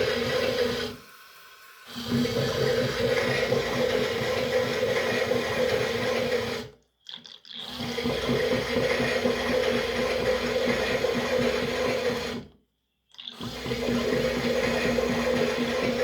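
Toy washing machine's small motor running with water sloshing in the tub, a steady hum that stops briefly three times, about every five to six seconds, then starts again.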